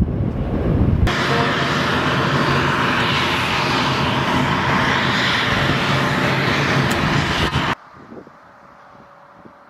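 Jet airliner engines, a loud steady roar that starts abruptly about a second in after gusty wind buffeting on the microphone. The roar cuts off sharply near the end, leaving only a faint hum.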